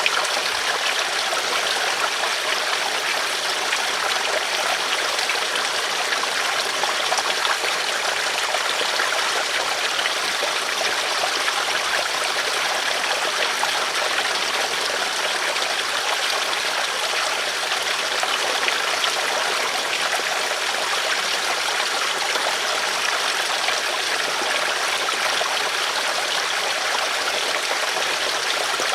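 River water flowing, a steady, even rush without breaks.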